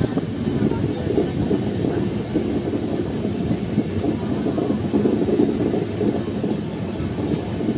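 Passenger train running on the rails, heard from on board: a steady, loud rumble of wheels and coach.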